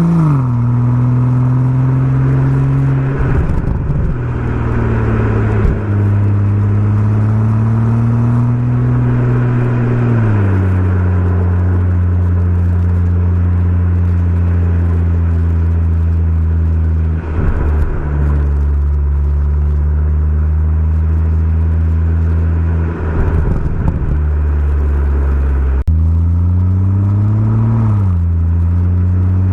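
BMW M140i's turbocharged straight-six engine, heard through its aftermarket Remus exhaust while driving, running under steady load for long stretches. The pitch drops just after the start and again about ten seconds in, then climbs and drops once more near the end. There are brief ragged moments in the note, and a sharp click comes shortly before the final climb.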